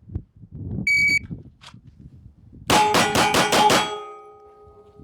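Shot timer's start beep, then six rapid pistol shots about a fifth of a second apart: a bill drill. A ringing tone lingers after the last shot.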